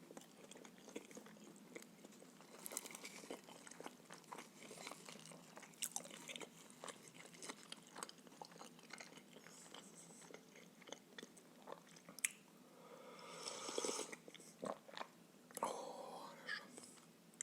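Close-miked chewing of filled pancakes: soft, wet mouth clicks and smacks in quick succession. Two louder, longer mouth noises come in the last few seconds.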